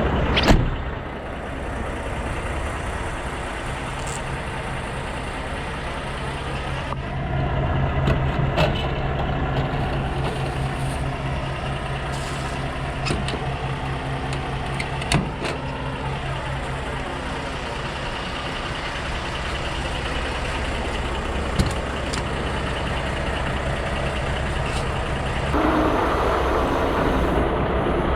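Heavy diesel truck engine idling steadily, with a few sharp clicks and a vehicle passing by. About three seconds from the end, a louder rushing rumble sets in.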